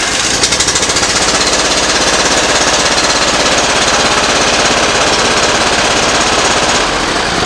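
Briggs & Stratton Professional Series 724cc V-twin mower engine running rough with a fast, even pulsing. The running is typical of a cylinder not firing.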